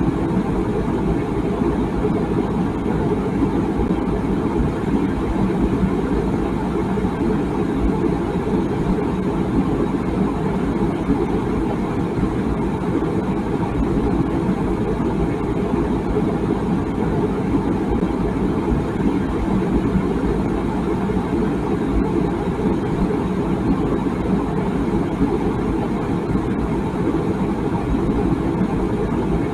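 Water boiling in a tea kettle: a steady low rumbling with no whistle.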